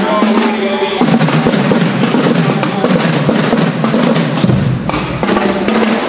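A marching band plays loudly, driven by bass drums and snare drums. There is a heavy low hit with a cymbal crash about four and a half seconds in.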